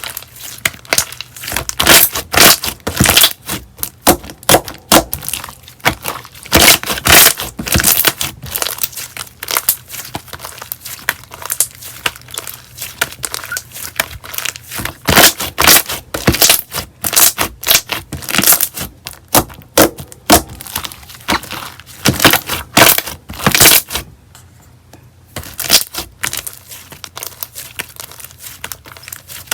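Slime being squeezed and worked by hand, giving dense crackling, popping clicks, with a short pause about 24 seconds in.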